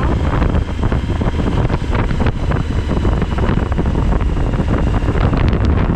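Wind buffeting the microphone while riding a Suzuki V-Strom 1000XT, with the bike's V-twin engine and road noise underneath.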